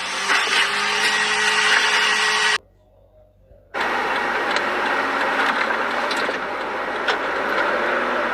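Car driving noise, engine and road rumble, with a faint steady whine at first. It cuts out for about a second, then steady vehicle noise resumes with a few faint clicks.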